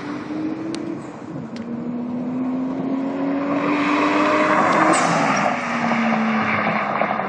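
Toyota 1JZ-GTE twin-turbo straight-six in a Supra accelerating past, its engine note rising steadily for several seconds. About five seconds in, near its loudest, the pitch drops and falls away as the car goes by.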